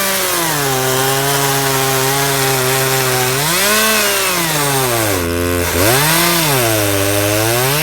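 Small Homelite two-stroke chainsaw with a 14-inch Husqvarna bar and full-comp square-ground chain, cutting through a log. The engine pitch drops each time it bogs under load in the cut, then rises again as it frees up, several times over.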